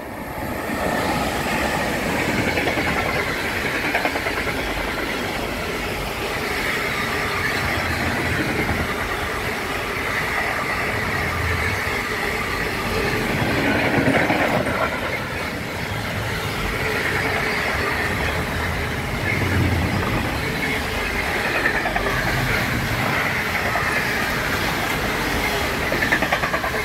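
Train passing through the station at speed for about 27 seconds, wheels clattering over the rails in a rapid run of clicks with a high wheel squeal above it. It starts suddenly as the train arrives and fades just after it has gone by.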